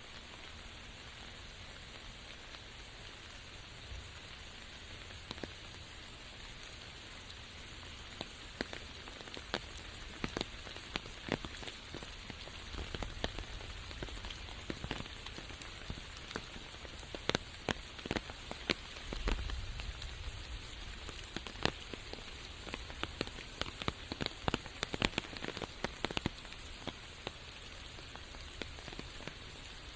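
Steady rain falling through a forest, a constant hiss with many individual drops striking sharply close by, the drops coming thicker through the middle.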